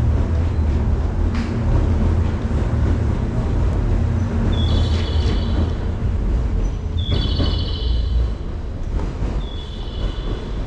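Steady low rumble of a train on an elevated station's tracks, easing a little in the second half. Over it, a short high chirping sound repeats three times, about two and a half seconds apart.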